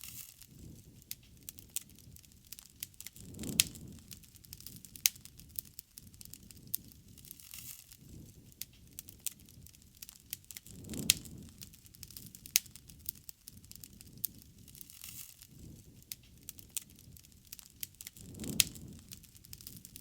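Wood bonfire burning, with constant sharp crackles and pops from the burning wood. A low rumbling swell comes and goes three times, about every seven seconds.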